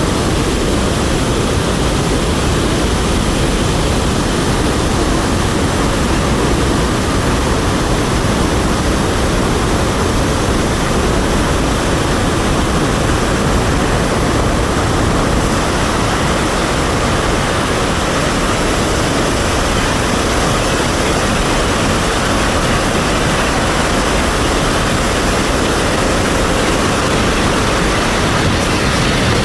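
Iguazu Falls, a huge mass of water plunging and pounding: a loud, steady rush of falling water.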